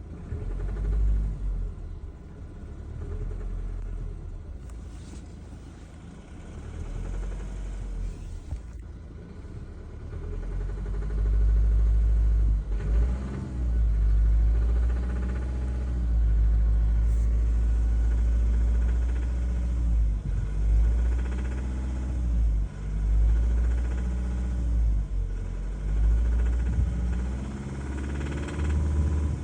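Mazda 3 1.5-litre engine running under a heavy low rumble, its pitch rising and falling several times as the revs change. The recording is made to show a rattle in the car, which the owner treats as a fault.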